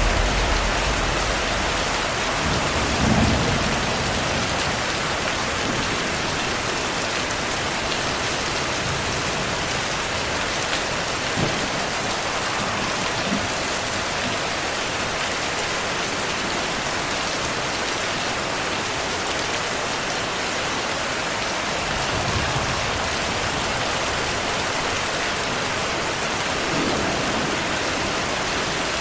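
Steady heavy rain hissing, with low rumbles of distant thunder at the start, again about three seconds in, and softer later on.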